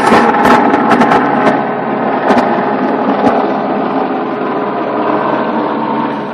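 A vehicle engine running steadily and loud, slowly fading away, with a few sharp clicks in the first three seconds.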